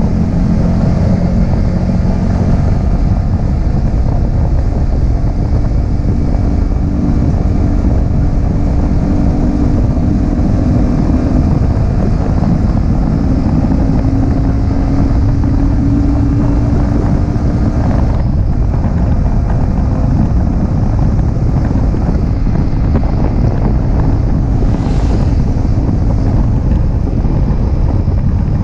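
Yamaha R15M's 155 cc single-cylinder engine on its stock exhaust, running while under way, its note rising and falling with the throttle, under heavy wind rumble on the microphone. About eighteen seconds in there is a brief click, and after it the engine note sinks beneath the wind.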